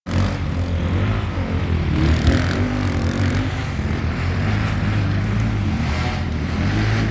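Enduro motorcycle engine running steadily, a low hum with a slightly wavering pitch.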